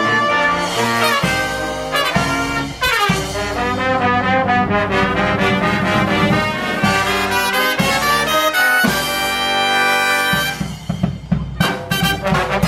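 Live brass band playing a tune, with trumpets and trombones sounding together in harmony. Near the end the music thins out briefly, then comes back in short, choppy hits.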